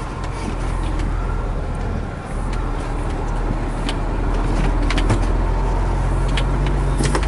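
Truck engine running, heard from inside the cab, a steady low drone that grows louder about four seconds in, with a few scattered clicks and knocks.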